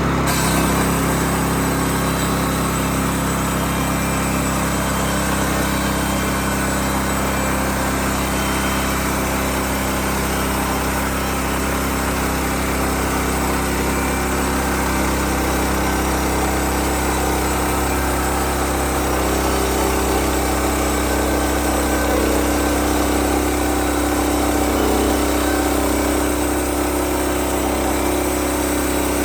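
Bushlander HM122 portable bandsaw sawmill running steadily on its engine, with its pitch holding even and a slight change in tone in the last third.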